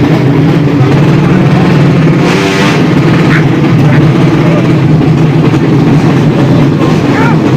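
Loud drag-race motorcycle engines running steadily at the strip.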